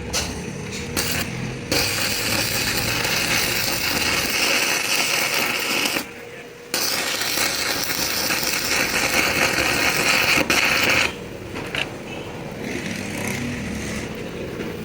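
Lathe turning a steel truck axle while a hand-held cutting tool scrapes its spinning surface, a harsh steady metal-cutting noise over the machine's hum. The cut stops for under a second about six seconds in, then runs on until near the end.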